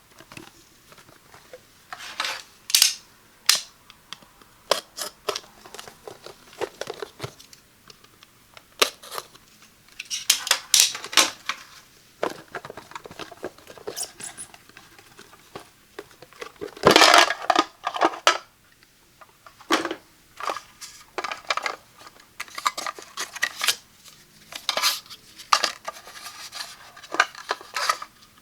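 Hands unboxing a Datacolor SpyderX Elite monitor calibrator: irregular clicks, taps and short rustles of the box, packaging and plastic parts being handled, with the longest, loudest rustle about 17 seconds in.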